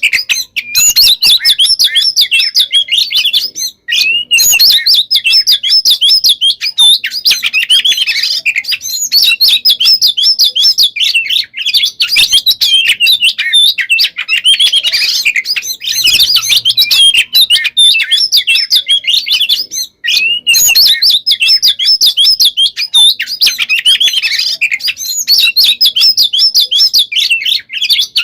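Oriental magpie-robin (kacer) singing a loud, fast and varied warbling song almost without a pause, broken only by short gaps about 4 seconds and 20 seconds in.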